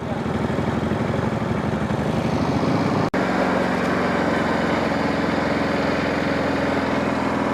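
Motorcycle engine idling steadily, with a brief gap in the sound about three seconds in.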